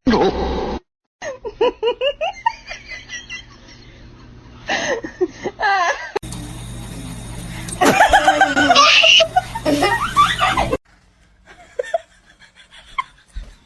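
People laughing, in several short segments that start and stop abruptly.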